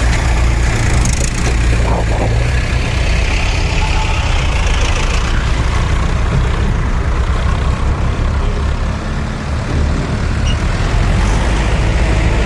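Swaraj 744 FE tractor's three-cylinder diesel engine running steadily under load as it pulls a fully loaded soil trolley.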